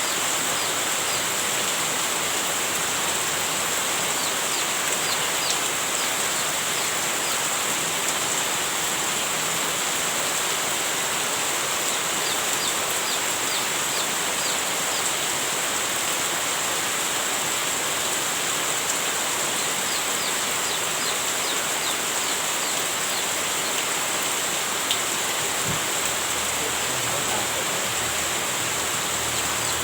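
Heavy rain falling steadily: an even, unbroken hiss. A steady high-pitched band of sound sits over it, with many faint, short, falling high chirps.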